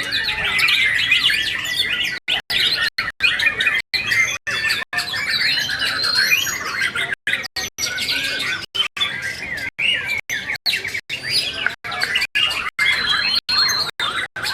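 Several white-rumped shamas (murai batu) singing at once, a dense overlapping tangle of fast whistles, trills and chattering notes. The sound is broken by many brief dropouts.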